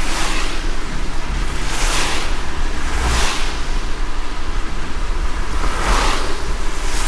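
Car driving in light rain: a steady low road rumble under an even hiss of rain, with a brief swish every second or two.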